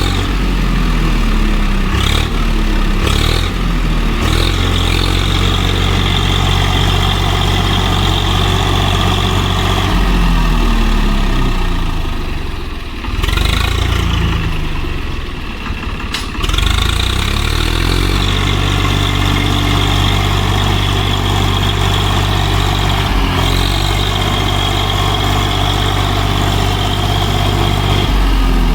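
Diesel tractor engine working hard to pull a trolley stuck in mud. The engine note sags and picks up again several times, about 2, 10, 13, 16 and 23 seconds in, and a high whine sits over it while the revs hold steady.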